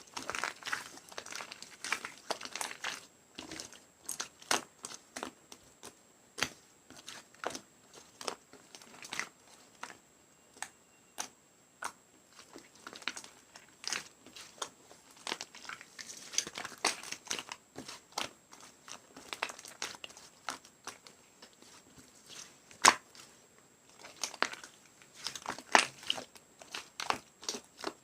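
Purple slime being played with by hand: irregular sticky crackles, clicks and small pops, with one louder snap a little over two-thirds through.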